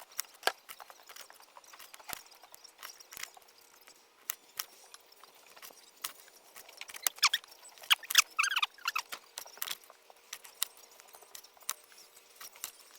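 Kitchen clatter: irregular sharp knocks and clinks of a knife, cutting board and bowl as chicken wings are cut up, with a few short squeaks about eight seconds in.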